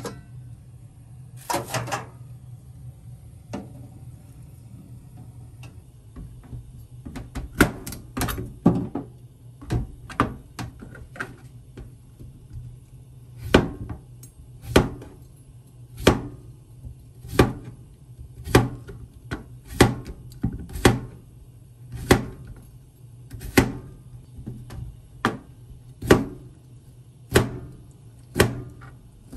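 Kitchen knife chopping through cucumber onto a cutting board: a few quick strokes, then a steady knock a little more than once a second, over a steady low hum.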